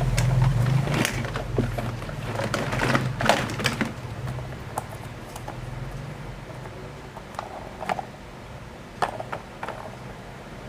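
Plastic toys being handled: a run of quick clicks and knocks over a low hum that fades after the first few seconds, then a few scattered clicks.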